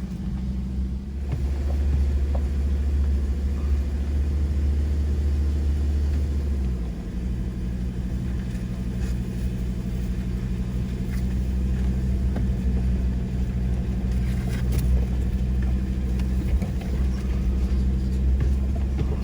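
Ford Ranger pickup's engine and drivetrain droning steadily as the truck pulls away in low range on a rough track, with scattered small knocks and rattles. The engine note dips about seven seconds in and then picks up again.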